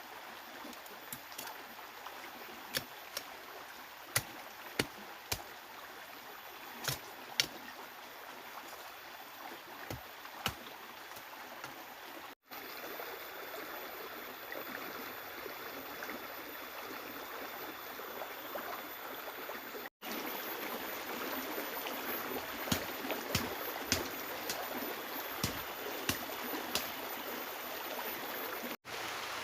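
Steady rush of heavy rain and flowing river water, with scattered sharp drops tapping in the first part. It breaks off briefly several times and comes back louder after the first break.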